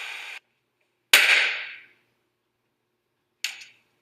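A steady hiss cuts off abruptly just after the start. A loud, sharp knock with a short ringing decay follows about a second in, and a smaller knock comes near the end.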